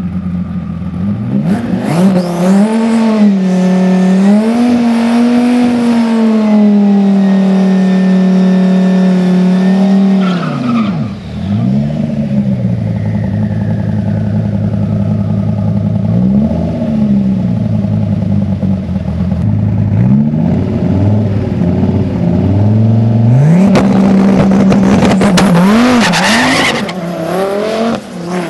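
Twin-turbo Dodge Viper V10 engine held at steady high revs with slight wavers for several seconds, dropping back to idle near the middle, blipped once, then held high again and falling away near the end.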